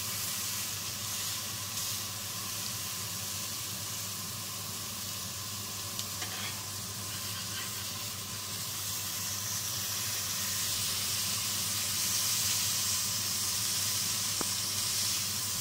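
Minced-meat patty sizzling in a hot ridged grill pan, growing louder in the second half as it is turned over with a slotted metal spatula. A couple of light taps of the spatula on the pan are heard.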